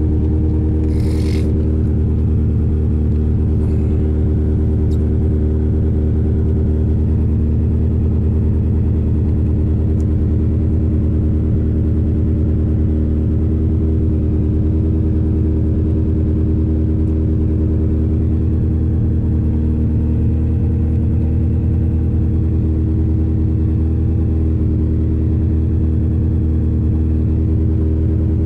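Lotus Esprit's four-cylinder engine idling steadily on choke, warming up after a cold start in freezing weather.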